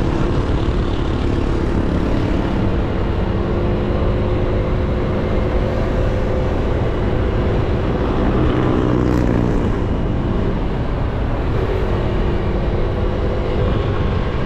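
Motorcycle engine running steadily under way, with wind and road noise muffled by a foam windscreen on an action-camera microphone. The sound swells briefly about eight to nine seconds in.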